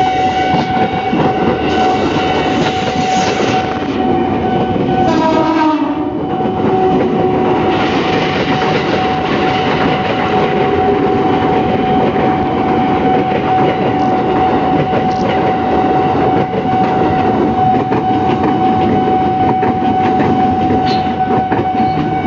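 JR 205 series electric commuter train passing close by, with a continuous rumble and clatter of wheels over the rails. A short horn blast falling in pitch sounds about five seconds in, and a steady high tone runs underneath throughout.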